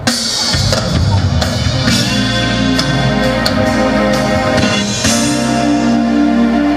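Live band music played loudly through a concert PA, with drum hits and guitar. About five seconds in it settles into a sustained held chord.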